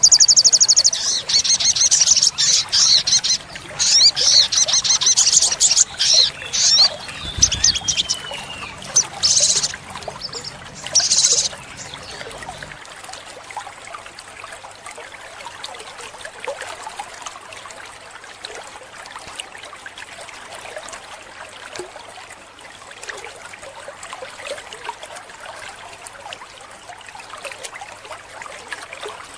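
Olive-backed sunbird singing loud, high, rapid trilling and chattering phrases in repeated bursts for about the first eleven seconds. Then the song stops and only a quieter, steady trickle of running water remains.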